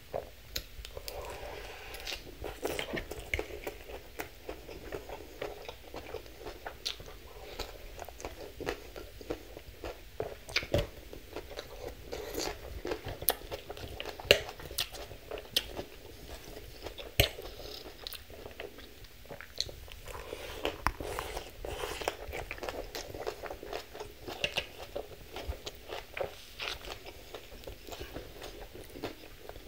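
Close-miked chewing and crunching of a mouthful of crisp salad greens, with many irregular sharp crunches.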